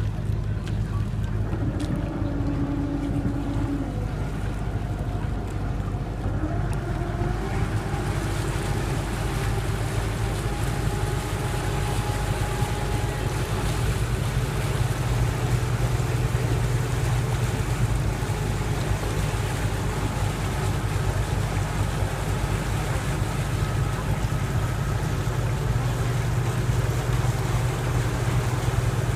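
Motorboat engine running steadily at low pitch, with a brief rise in pitch about seven seconds in and a steady hiss of wind and water.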